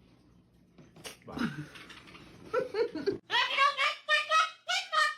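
A low spoken 'bye', then a sudden cut to a high-pitched voice giggling in quick, bending syllables.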